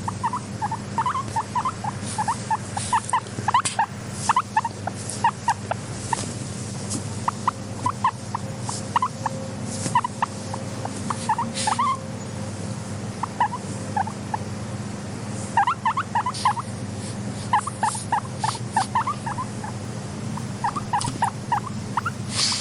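Guinea pig making quick clusters of short, low chuttering squeaks, with sharp clicks scattered among them over a steady low hum.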